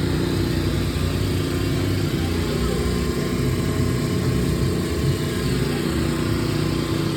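A motor running steadily at a constant speed, a low rumble with a steady hum over it.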